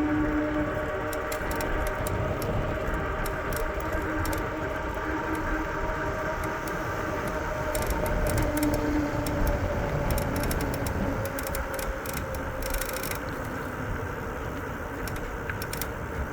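Riding an e-bike along a paved trail: wind rumbling on the microphone and tyre noise, with a light rattle and a faint steady hum that drifts slowly in pitch.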